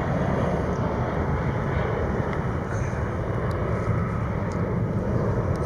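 Steady jet engine noise from an airliner, a continuous low rumble with no sudden changes.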